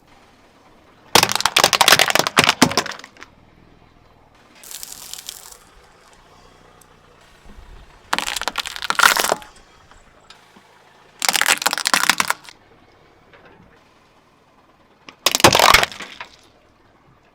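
Objects cracking and crunching as they are crushed under a car tyre, in four loud bursts of a second or two each, with a fainter crunch between the first two.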